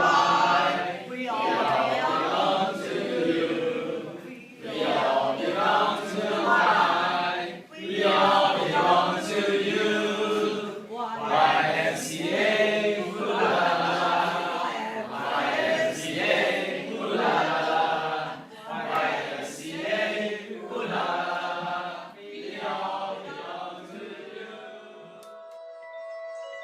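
A group of voices singing together in phrases, which stops about 25 seconds in, where several steady chime-like ringing tones take over.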